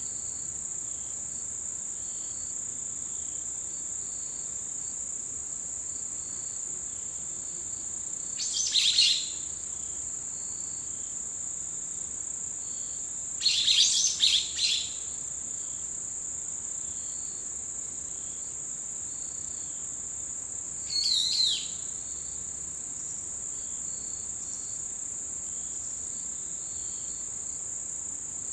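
Autumn insects, with one high, unbroken trill and a fainter insect chirping again and again underneath. Over this, birds give three short bursts of calls, about nine, fourteen and twenty-one seconds in.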